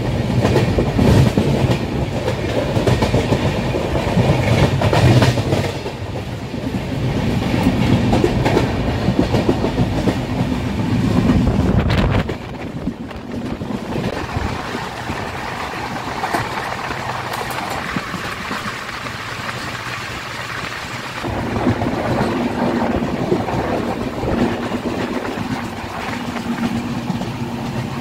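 Passenger express train running on the track, its wheels clattering over rail joints with a steady running rumble. The rumble drops suddenly about twelve seconds in and carries on lower.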